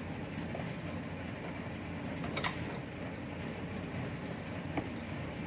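A few sharp clicks and taps from hand work on the car's lines and parts, the clearest about halfway through and another near the end, over a steady low hum.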